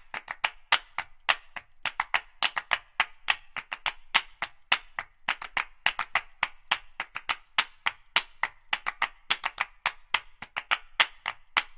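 Percussion music: a fast pattern of sharp, woody clicks, about six a second, some accented louder than others.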